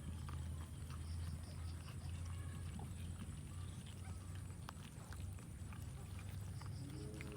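Cats eating, with small irregular clicks of chewing and mouthing food over a steady low hum.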